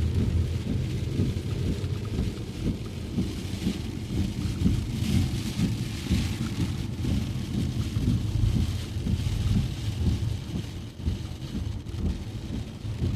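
A car driving in heavy rain: a low, steady rumble of road and vehicle noise under the hiss of rain and tyre spray. The hiss swells for a few seconds from about four seconds in.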